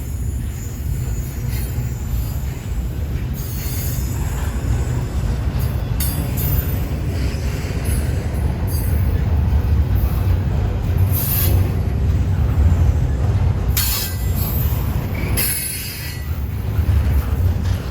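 Freight train rolling past with a steady heavy rumble, broken every few seconds by brief high-pitched wheel squeals.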